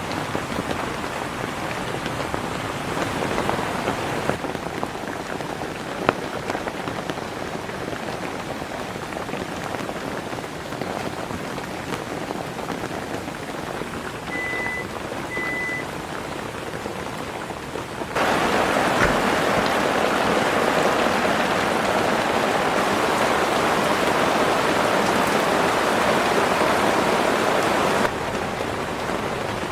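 Heavy rain pattering steadily on a large camping shelter. It turns suddenly louder about two-thirds of the way in, then drops back shortly before the end.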